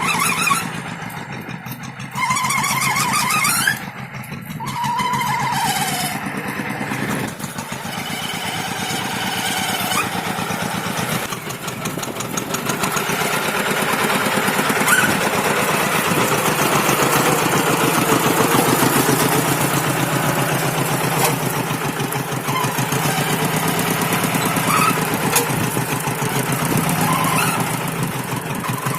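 Walking hand tractor's single-cylinder diesel engine running steadily under the load of a moldboard plough, growing louder about halfway through.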